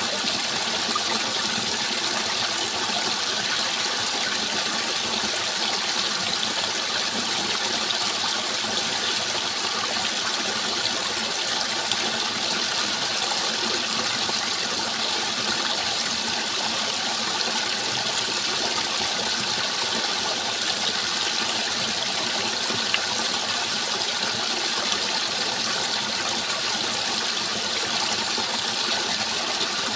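Water rushing steadily, an even hiss with no breaks.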